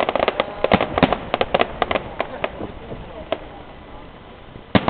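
Fireworks going off: a rapid run of sharp bangs and crackles over the first couple of seconds that thins out into a quieter gap, then a single loud bang near the end.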